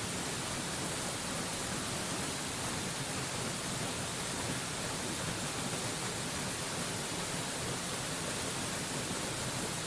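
Steady, unbroken rushing of a waterfall, an even hiss with no changes.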